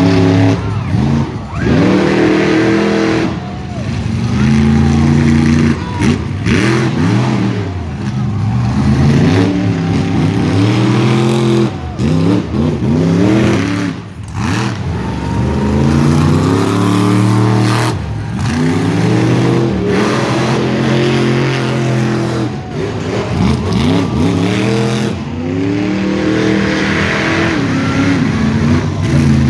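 Monster truck engines revving hard, the pitch climbing and dropping again and again.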